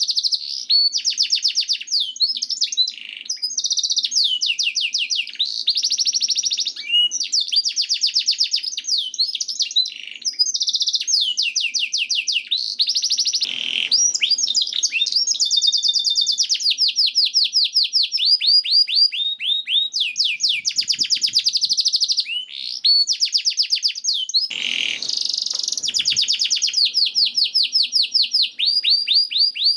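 Domestic canary singing a long, nearly unbroken song of fast trills and rapidly repeated sweeping notes, with a couple of brief harsh, noisy notes partway through.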